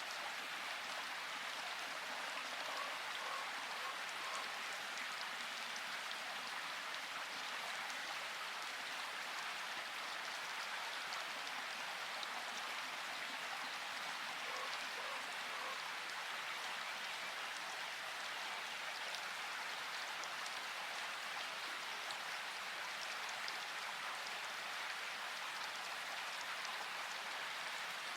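Steady rain falling: an even hiss of rainfall with fine ticks of individual drops, unchanging throughout.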